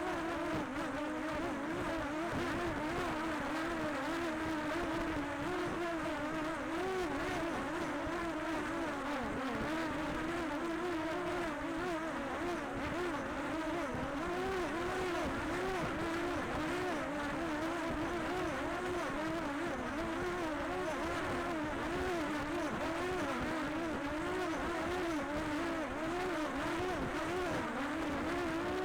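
Quadcopter drone's propellers and motors buzzing steadily, the pitch wavering up and down constantly as it flies back to land.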